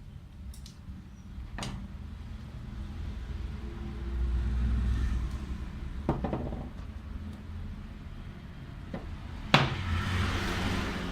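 A few sharp knocks and clicks of hard objects being handled, over a low rumble that swells for a second or so in the middle. The loudest knock comes near the end and is followed by a short hiss.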